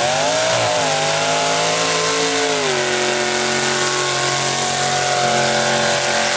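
Mega truck's engine running at full throttle, its pitch wavering at first, dropping a step about two and a half seconds in, then holding steady and high.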